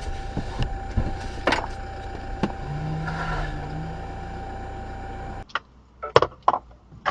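Steady car road and engine noise picked up by a dash cam inside a moving car, with scattered clicks and knocks. The noise cuts off suddenly about five seconds in, leaving a few sharp knocks.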